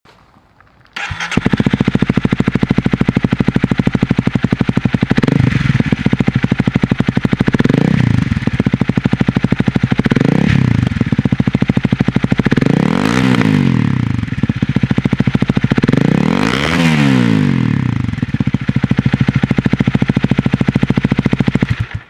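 Honda Rebel 250's single-cylinder engine through an aftermarket slip-on muffler, coming in about a second in and idling with a rapid even beat. It is revved five times, each rev rising and falling back to idle, the last two going highest, and cuts off just before the end.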